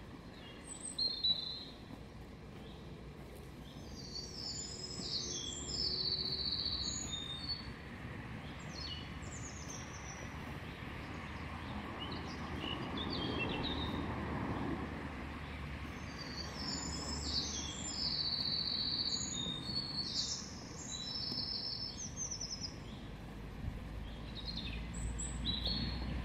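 Small birds singing in quick runs of short high chirping phrases, in two long bouts, over a steady outdoor background hum. A low, broad noise swells and fades around the middle.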